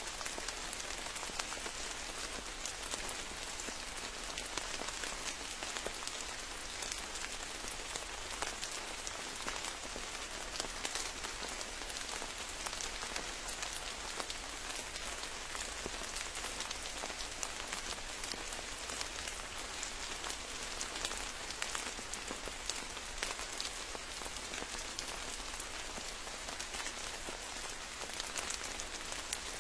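Rain falling steadily, a continuous hiss dotted with many small drop impacts, with no change in strength.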